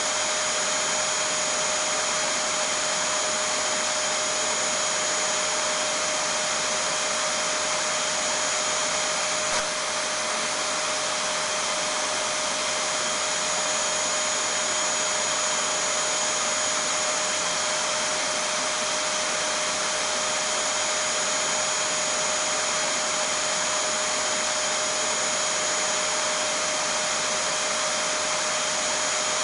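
Vacuum cleaner running steadily: a constant rush of air with a steady hum and a high whine over it, unchanging throughout.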